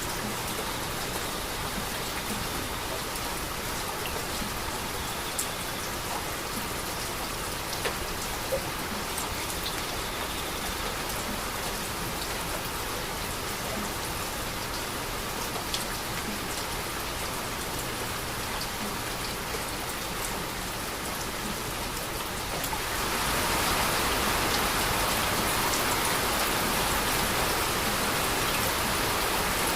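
Steady rain falling, with occasional sharp drops striking close by. About 23 seconds in the rain grows louder and stays so.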